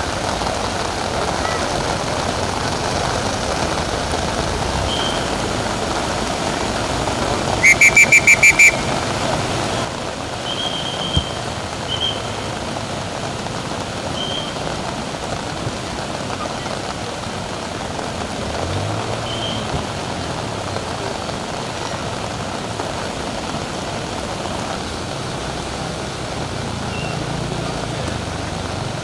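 Steady noise of heavy rain on a flooded street, then of rushing floodwater, with a quick run of about six short high beeps about eight seconds in.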